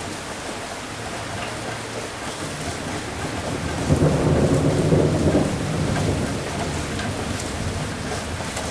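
Steady rain falling with a rumble of thunder that swells up about halfway through and dies away over a couple of seconds.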